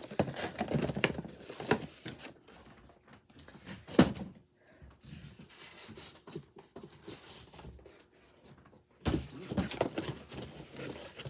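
Boxed vinyl figures and cardboard packaging being handled and set down: scattered knocks and rustling, with one sharp knock about four seconds in and busier handling noise near the end.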